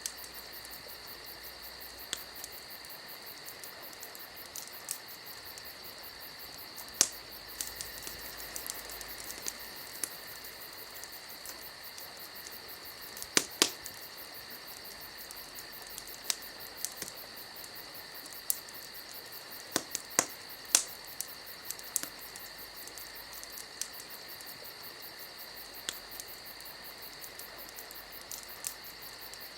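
Wood fire crackling: irregular sharp pops and snaps, a few of them much louder, over a steady high hiss.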